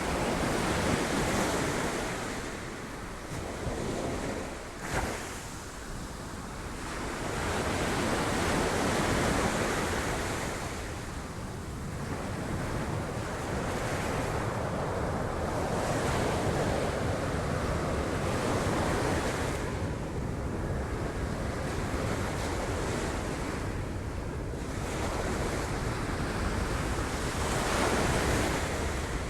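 Sea waves breaking on rocks, a continuous wash of surf that swells and falls every few seconds, with one sharp crash about five seconds in.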